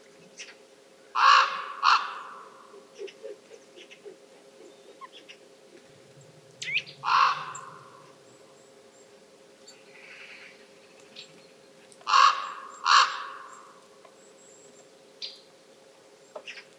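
A corvid calling: three bouts of two loud, harsh caws, about five seconds apart, over a faint steady hum.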